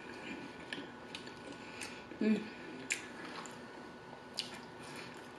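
Close-miked mouth sounds of a person eating: soft chewing with scattered wet clicks, and a brief low hum about two seconds in.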